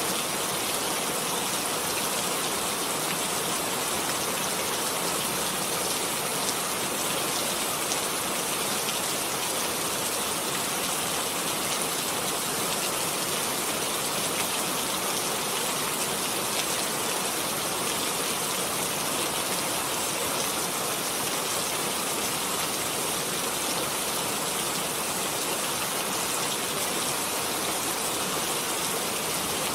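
Steady heavy rain, an even hiss with many fine drop patters on a surface.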